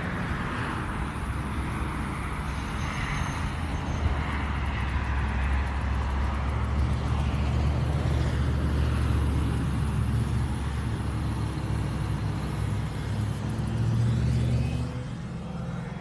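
Road traffic: motor vehicle engines and tyres rumbling past, swelling in the middle and again near the end before fading out.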